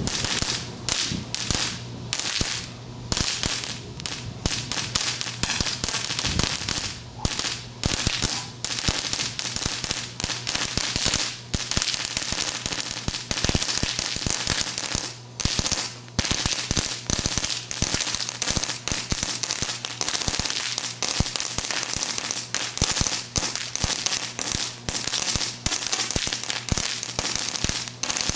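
Firecrackers going off in a string: a dense, rapid run of sharp bangs and cracks with hardly a gap.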